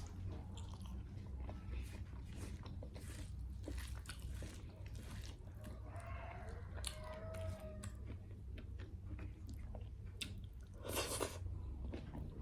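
A person chewing and biting food close to the microphone, with faint soft crunches and mouth clicks, and a louder brief noise about eleven seconds in.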